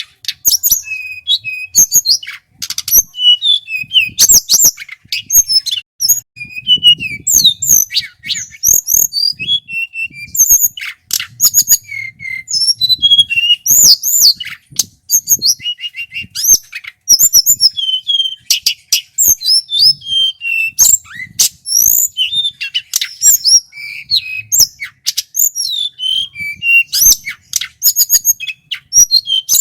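Male tledekan gunung, an Indonesian blue flycatcher, singing a loud, rapid, varied song of quick high whistles, trills and sharp chips, almost without a break.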